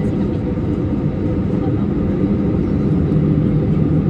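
Vehicle engine running with a steady low rumble, a faint hum riding on it.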